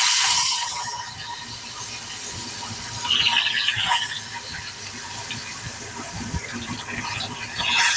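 Tempeh frying in hot oil in a pan: a steady sizzle that swells louder about three seconds in and again near the end.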